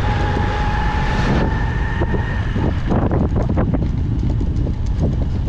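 Riding a motorcycle in street traffic: wind buffets the microphone over the engine's steady rumble. A steady high tone sounds through the first second or two, then stops.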